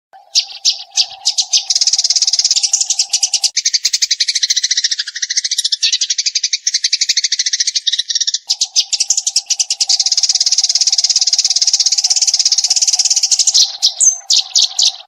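Eurasian tree sparrows chattering in a fast, continuous stream of high chirps, the rapid 'full burst' song used to train songbirds. A steady low hum runs beneath the chirping, dropping out for about five seconds in the middle.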